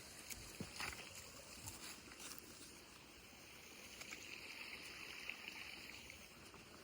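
Faint running water of a small woodland stream trickling, with a few light ticks in the first couple of seconds.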